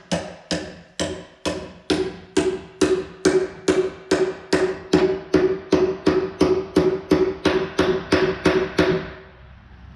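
Steady hammer blows on a steel bucket tooth, about two strikes a second, each with a short metallic ring; the hammering stops about nine seconds in.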